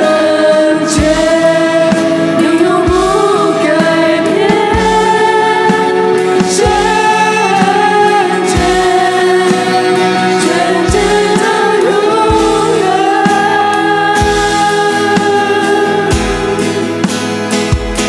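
Christian worship song: voices singing long held notes over a band, with a steady kick drum beat underneath.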